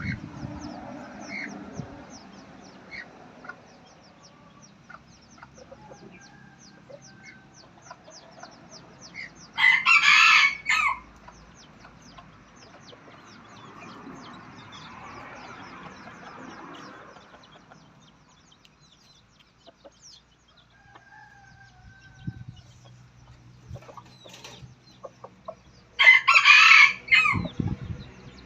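Wild chicken (red junglefowl) rooster crowing twice, about sixteen seconds apart, each crow short and broken up. Softer clucking comes between the crows, and a fast run of faint high chirps fills the first half.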